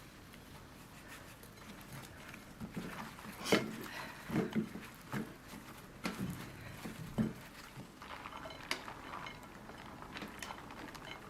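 Kitchen work sounds: a series of irregular knocks and clinks of utensils against dishes, busiest in the middle.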